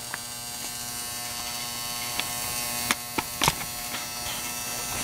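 Electric vibratory cleaner buzzing steadily as it shakes rocker arms in a pail of water and baking soda. A few sharp clicks come in the middle.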